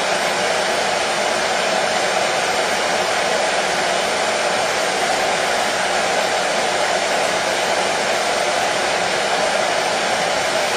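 Hair dryer running continuously at a steady level: an even, unchanging rush of blown air with its strongest tone in the middle range.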